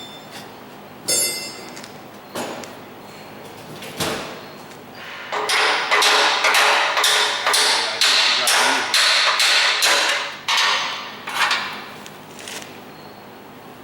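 Hammer blows on steel, driving a lower A-arm onto its mounts: one ringing strike, a few single knocks, then a run of quick blows at about three a second, then two more.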